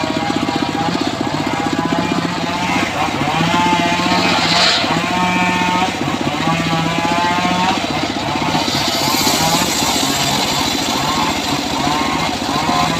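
Engine of a homemade circular sawmill running steadily under load, with a whine that wavers up and down in pitch as the blade rips through a teak log.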